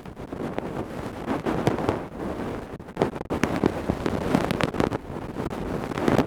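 Ear-cleaning tools scraping and rubbing against a microphone: a dense crackling, scratching noise full of sharp clicks.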